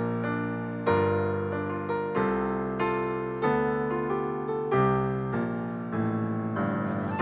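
Piano playing a slow series of chords, a new chord struck about once a second and left to ring and fade.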